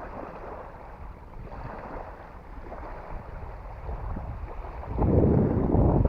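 Wind buffeting the microphone over lapping water, a steady rushing noise, with a much louder rush lasting about a second near the end.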